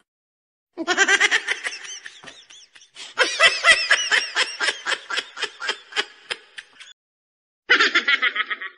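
Three short laughter sound effects in a row, each a run of quick ha-ha pulses: the first about a second in, the second and longest from about three seconds in, and a short third near the end.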